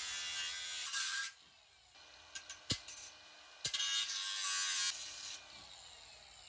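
A handheld power cutting tool running in two bursts as it trims a piece of the truck's front end, cutting out about a second in, with a few sharp clicks in the gap. It runs again for under two seconds, and its pitch falls as it winds down near the end.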